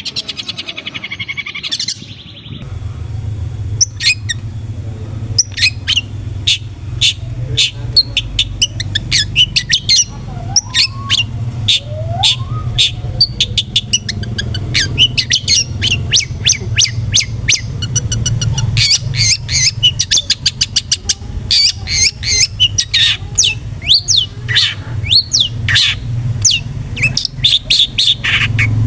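Long-tailed shrike (cendet) calling: a rapid rattling trill that cuts off about two seconds in, then a long run of sharp, harsh chirps that come thicker toward the end. A steady low hum runs under the calls after the cut.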